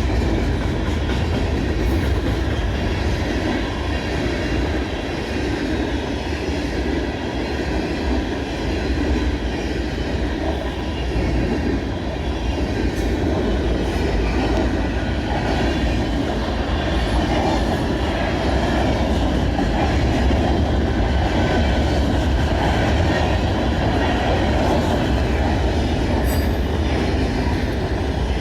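Freight cars of a mixed freight train rolling past, a steady rumble of steel wheels on rail.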